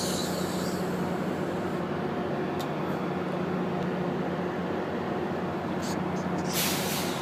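Diesel passenger locomotive idling at a station platform: a steady low hum, with a short hiss at the start and another near the end.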